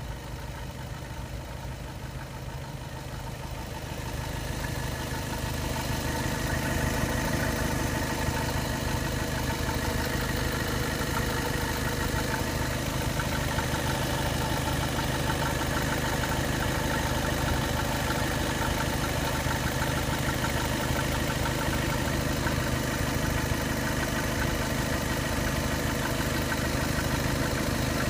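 Skoda Octavia 3's 2.0 TDI diesel idling cold, with a steady mechanical noise that the owner puts down to the vacuum/oil pump. It gets louder about five seconds in, then holds.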